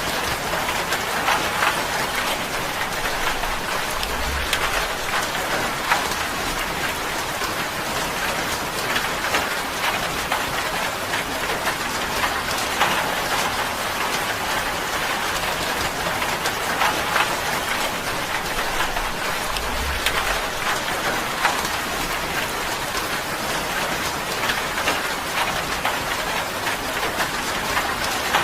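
Steady rain on a tin roof: an even patter with many individual drops ticking sharply on the metal. Two brief low rumbles come through, about four seconds in and again near twenty seconds.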